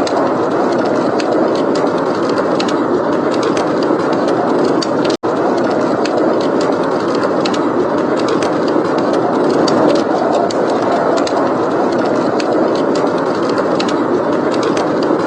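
Blizzard wind blowing steadily, with a wood fire crackling in small scattered pops over it. The sound cuts out for an instant about five seconds in.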